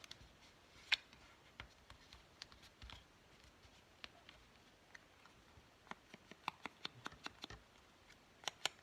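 Scattered light clicks and taps as small craft materials are handled on a work table: one louder tap about a second in, a quick run of several taps a few seconds later, and two more near the end.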